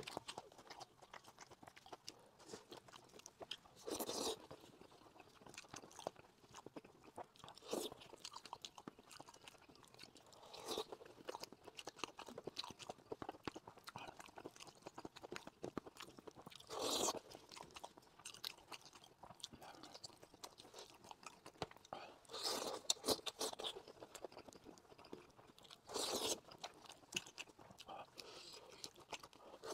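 Close-miked eating sounds of a man chewing sheep's-head meat: wet chewing and lip smacking with small clicks throughout, and louder bursts every few seconds as he bites and pulls meat from the head with gloved hands.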